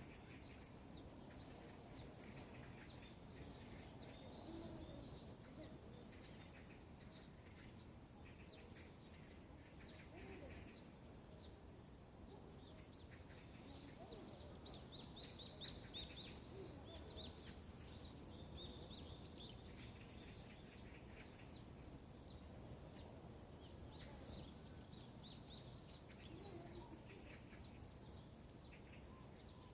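Faint morning birdsong: several small birds chirping in short high notes, busiest about halfway through, over a low background hum.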